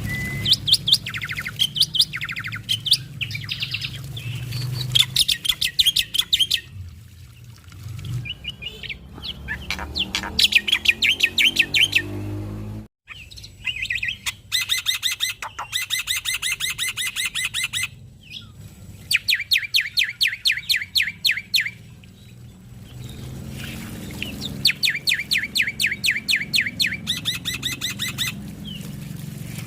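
Male black-winged myna (jalak putih) singing phrases of a few seconds, each a rapid run of repeated chattering notes, with short pauses between, over a low background hum.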